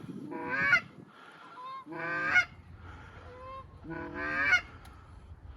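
Canada geese honking: three loud, rising honks about two seconds apart, with softer honks between them.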